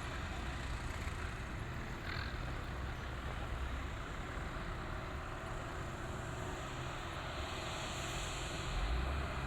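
Tractor diesel engine running steadily, growing louder near the end.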